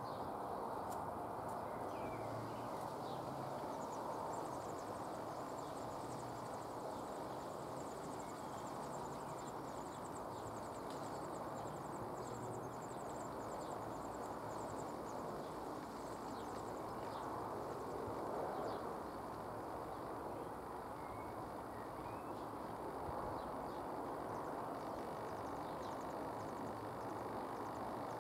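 Steady outdoor background hiss and rumble, with faint, very high-pitched, rapid chirping from small birds for several seconds in the first half and a few thin single chirps later.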